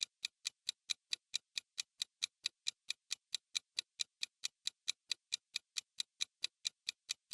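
Countdown-timer ticking sound effect: even, clock-like ticks at about four to five a second, marking the time left to answer.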